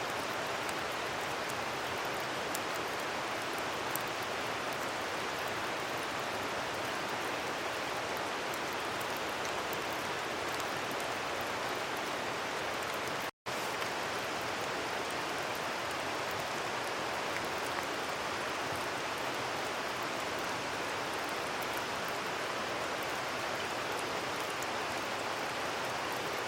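Steady rain falling, a dense even hiss with faint scattered drop ticks, broken by a split-second dropout about thirteen seconds in.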